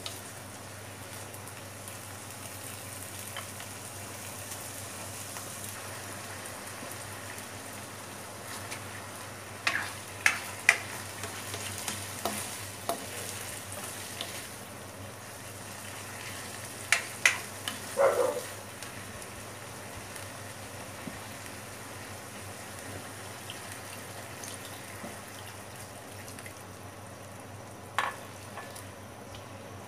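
Pork pieces sizzling as they fry in a nonstick wok while being stirred with a spatula. Scattered sharp clacks of the spatula against the pan come in small clusters about a third of the way in and again just past halfway, with one more near the end.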